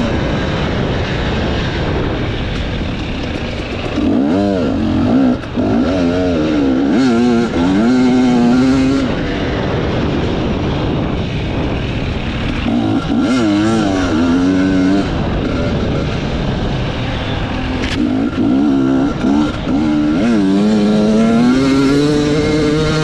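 Enduro motorcycle engine revving up and down over and over as the rider works the throttle off-road, the pitch climbing and dropping every second or two.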